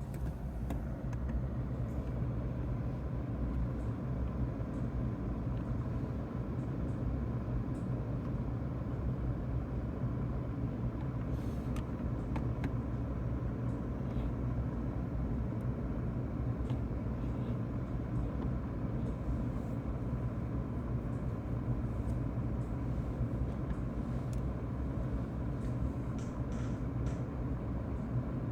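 F-150 Lightning cabin HVAC blower fan running steadily on high, a constant rushing of air with a faint steady whine.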